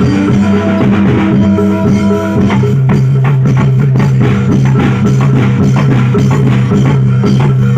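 Live reog and jaranan dor music: drums and struck percussion playing a busy rhythm over long held low notes, the held note dropping in pitch about two and a half seconds in.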